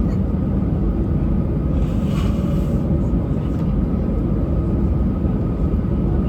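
Airbus A320 cabin noise: a steady, loud rumble from the engines and airflow with a faint steady hum. A brief hiss comes in about two seconds in.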